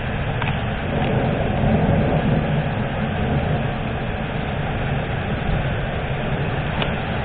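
Thunderstorm noise: a steady low rumbling hiss, with a few faint clicks.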